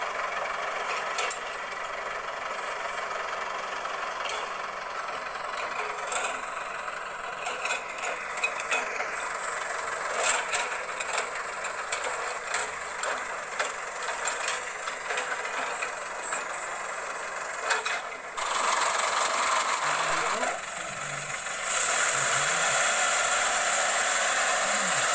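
Dump truck running, a continuous mechanical noise with many short clicks and knocks. The noise steps up louder about eighteen seconds in and again a few seconds before the end.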